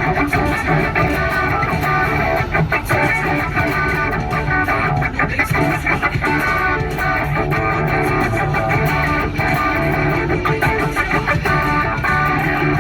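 Electric guitar played through an amp, a steady run of strummed chords and picked notes.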